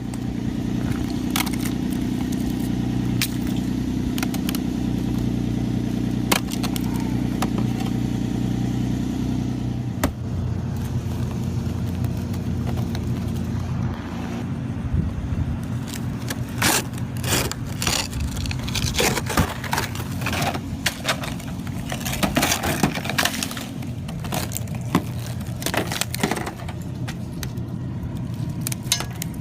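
A sheet of ice being scraped and cracked off a car: a car engine hums steadily for about the first ten seconds, then irregular sharp scrapes, cracks and crunches of breaking ice take over.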